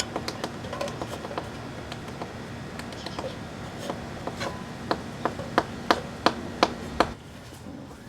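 Caulk gun being squeezed: scattered sharp clicks, then a run of about seven trigger clicks at roughly three a second that stops about a second before the end, over a faint steady hum.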